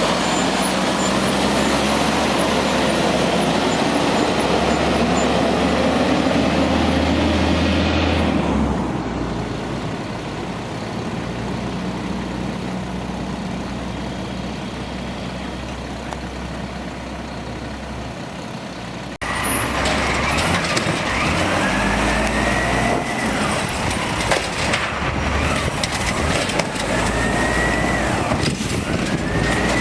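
Automated side-loader garbage truck working, its engine running loud at first, then easing off to a quieter run. About two-thirds of the way in the sound changes abruptly to another spell of truck noise with several rising whines.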